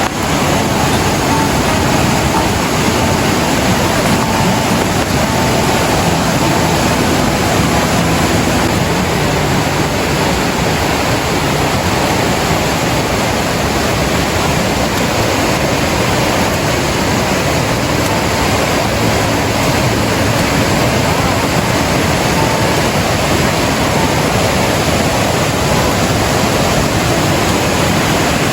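Steady, loud rushing water, an even hiss that does not change.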